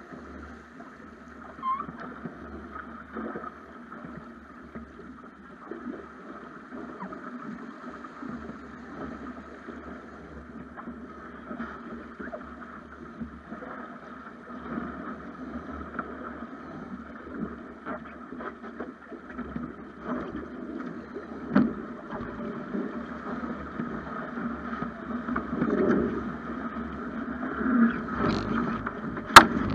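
Water rushing along the hull of a Snipe sailing dinghy under way, a steady wash with occasional knocks and clicks from the boat, and one sharp click near the end.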